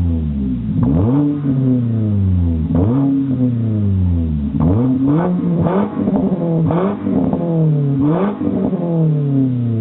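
Kia Cerato with a dual exhaust, revved in repeated throttle blips, about six of them. Each time the engine note rises sharply and then falls back slowly toward idle.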